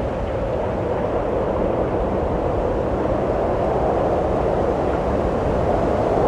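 Wind blowing steadily as a hollow rushing whoosh, slowly growing louder.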